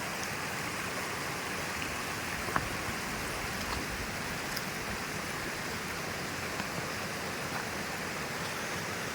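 River water flowing: a steady, even rush. A faint click about two and a half seconds in.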